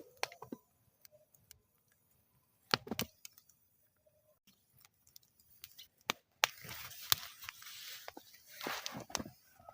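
Wood fire crackling in a metal fire bowl: scattered sharp pops and snaps, a quick cluster about three seconds in, then a few seconds of hissing with several loud pops in the second half.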